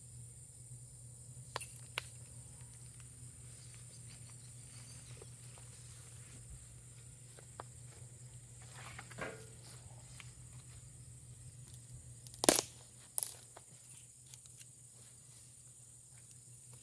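A few sharp clicks and knocks, the loudest pair about two thirds of the way through, over a steady low hum and hiss.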